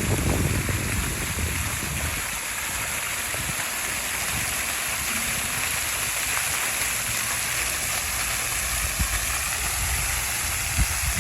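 Splash pad fountains spraying water in a steady rush.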